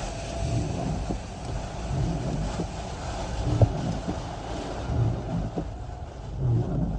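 Hurricane winds gusting in a low, steady rumble that swells and eases, buffeting the microphone, with a few sharp knocks, the loudest about halfway through.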